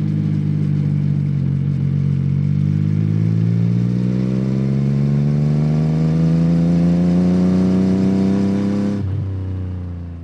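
Yamaha MT-09 (2021) 890 cc inline-three engine through a Yoshimura R77 exhaust, pulling steadily in one gear with its note rising smoothly. About nine seconds in the throttle closes and the pitch drops suddenly, then the sound fades out.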